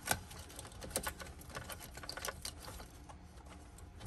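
Irregular light clicks and rattles of plastic wiring-harness connectors and cables being handled and plugged into a car stereo head unit, the clicks thinning out in the second half.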